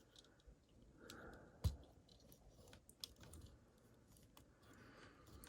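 Faint clicks and light knocks of a plastic Transformers figure being handled and posed, with one sharper click about a second and a half in.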